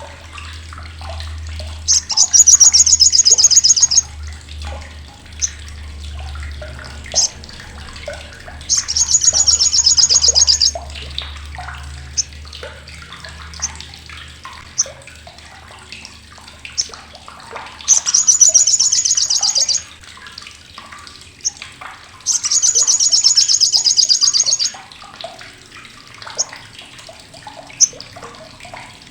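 Olive-backed sunbird (sogok ontong) giving its crecetan, a loud, harsh, sharp rattling chatter. It comes in four high-pitched bursts of about two seconds each, with scattered short chirps between them.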